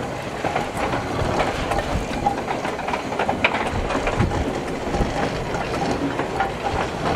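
Small saddle-tank steam locomotive and a goods brake van rolling past, their wheels clicking and knocking irregularly over the rail joints above a steady running rumble.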